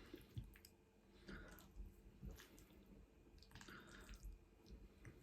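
Faint close-up eating sounds: someone chewing garlic pasta, with soft wet smacks and clicks about once a second.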